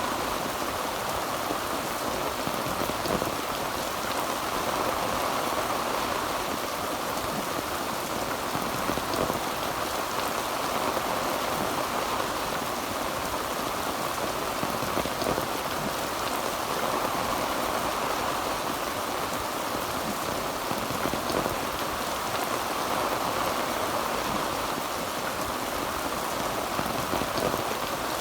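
Heavy rain drumming steadily on a tin roof, a dense even patter of drops with scattered sharper ticks.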